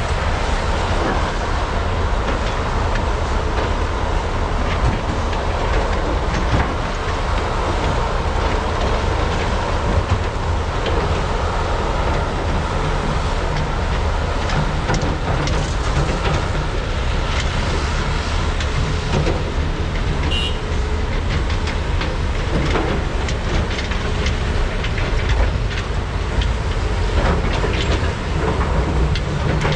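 Large hydraulic mining excavators working under load: a steady, heavy diesel rumble with frequent knocks and clatter of buckets and rock as material is loaded into trucks. A short high tone sounds about twenty seconds in.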